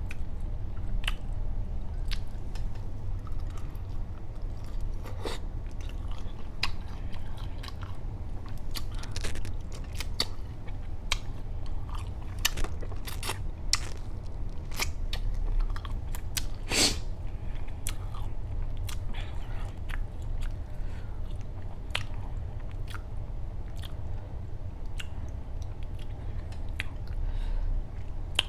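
Close-miked eating: chewing and biting into jumbo shrimp, with frequent irregular wet clicks and smacks over a steady low hum.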